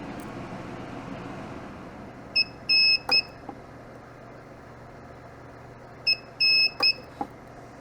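Mini spot welder in auto-sensing mode beeping as the probes touch the cell: a short beep, then a longer one, ending in the sharp snap of the weld pulse through the nickel strip. This happens twice, about four seconds apart.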